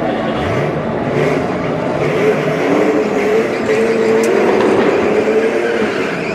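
A drag-racing car's engine at full throttle. Its pitch climbs steeply about half a second in, then it holds a high, steady howl as the car accelerates.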